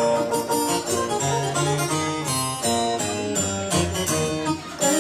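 Instrumental introduction of a Mexican ballad played live, with a plucked guitar-like melody over bass notes and a steady beat.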